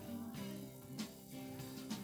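Live band playing, with guitar and drums keeping a steady beat.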